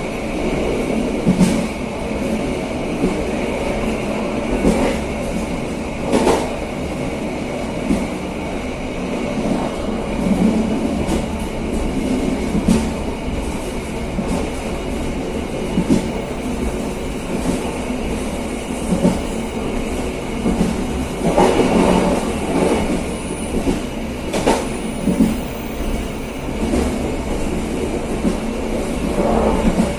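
KA Serayu passenger train running along the track at speed: a steady rumble of wheels on rail, broken by sharp knocks every few seconds, with a cluster of them a little past the middle.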